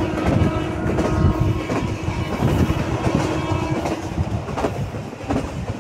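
Passenger train running along the track, heard from inside a coach: a steady rumble of wheels with irregular clacks over the rail joints, and a steady hum that stops about four seconds in.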